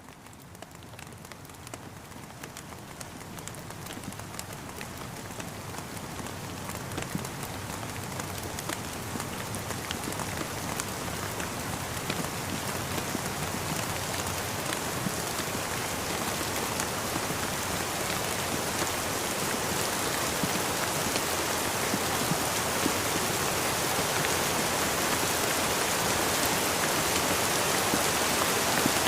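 Rain falling steadily, with many individual drops tapping through a dense hiss. It fades in gradually, growing steadily louder throughout.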